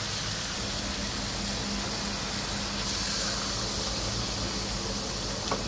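Hot oil sizzling steadily in a wok as minced garlic fries, over a faint low hum; the sizzle brightens about three seconds in as sliced pork goes into the pan. A brief click comes near the end.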